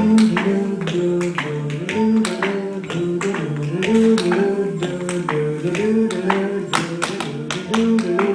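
Tap shoes striking a hard floor in quick, irregular rhythms over an instrumental accompaniment that repeats a short melodic phrase.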